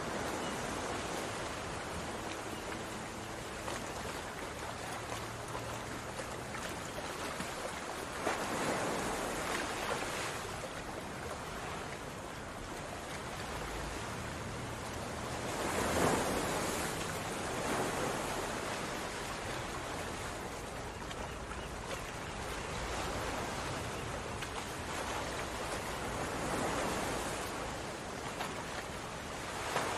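Chicken pieces frying in oil and masala in a pot, a steady sizzle that swells louder a few times.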